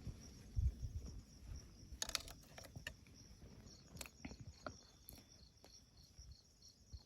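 Crickets or similar night insects chirping faintly in a steady, evenly pulsing high trill. A few soft clicks and low thumps sound over it.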